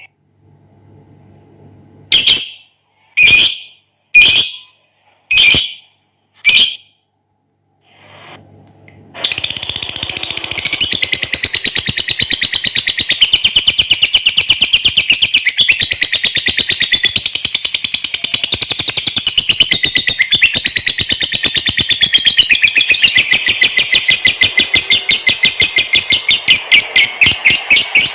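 Lovebird giving five short separate calls, then from about nine seconds in launching into a long unbroken ngekek: a fast, rattling chatter of rapidly repeated high notes.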